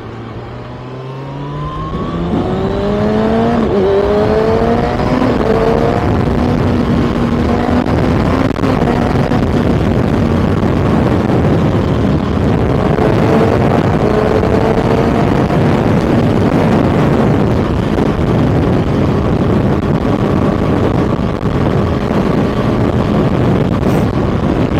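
Kawasaki ZX-6R's inline-four engine accelerating, its pitch climbing over the first few seconds and rising again near the middle, then holding steady at a high, loud pitch under a dense rush of noise.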